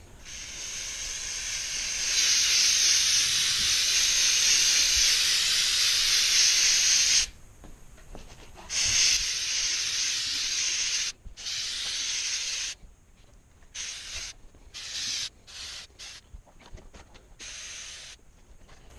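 Aerosol can of CitriStrip paint stripper spraying: a long steady hiss of about seven seconds, then a few shorter sprays of a second or two, then several brief spurts near the end.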